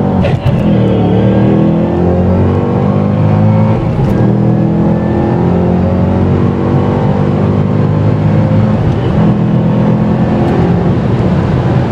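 Supercharged V8 of a 2013 Ford Shelby GT500 heard from inside the cabin, accelerating hard. The engine note climbs in pitch, dipping briefly at gear changes about half a second in and again around two and a half and four seconds, then keeps rising more slowly.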